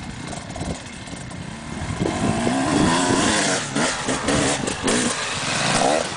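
Motocross dirt bike engine running and revving up and down, getting louder about two seconds in.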